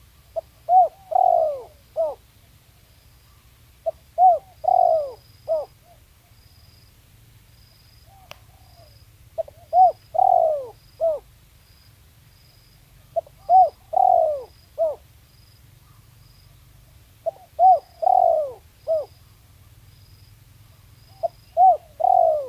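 Spotted dove cooing, repeating the same call phrase six times about every four seconds: a few short coos around one longer, drawn-out coo, then a last short note. A faint string of short high chirps and a low hum run behind it.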